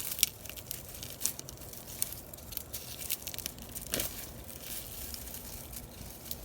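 Dry, dead potato plants and soil being pulled and dug out of a container by hand: irregular crackling, tearing and rustling.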